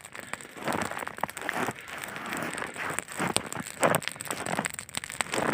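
Log campfire crackling with irregular sharp pops, mixed with short bursts of rustling and crunching from movement nearby.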